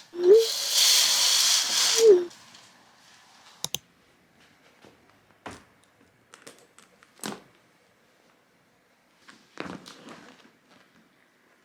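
A small electric motor whirs for about two seconds, spinning up and winding down, then a few scattered light taps and clicks.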